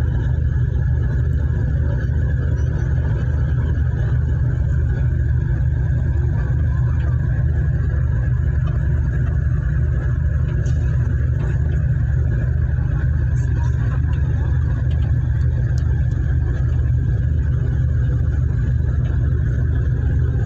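An engine running at a steady speed: a continuous low rumble with an even hum, unchanging throughout.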